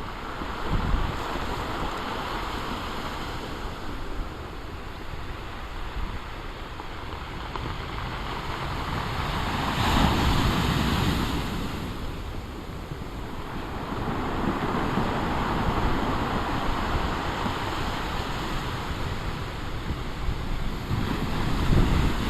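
Large storm waves breaking and washing on the shore, swelling loudest about ten seconds in and again around fifteen seconds. Wind buffets the microphone with a low rumble throughout.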